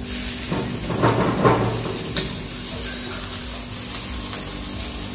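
Chopped onion sizzling in hot oil in a wok, stirred with a metal spatula. The sizzle swells about a second in, then settles into a steady sizzle, with a sharp clink of the spatula on the wok a little after two seconds and a low steady hum underneath.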